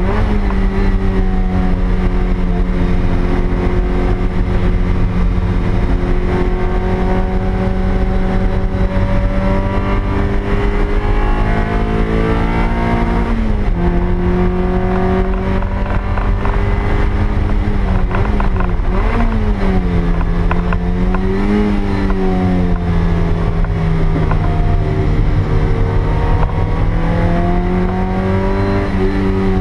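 Toyota MR2 Spyder's stock 1ZZ 1.8-litre four-cylinder engine running at high revs, heard from inside the cabin over road and wind noise. Its pitch climbs slowly, drops suddenly about halfway through at a gear change, then dips and rises twice before settling, and falls again near the end.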